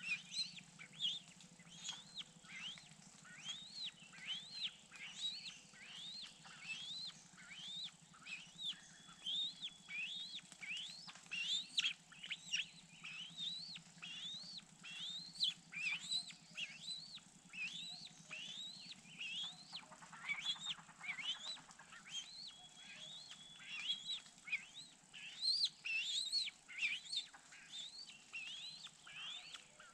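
Bird chirping in a steady run of short, arched, high notes, about two a second, over a faint steady low hum.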